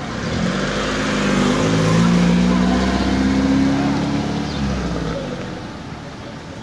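A car engine passing close by and driving off, its pitch rising a little as it speeds up, then fading out about five seconds in.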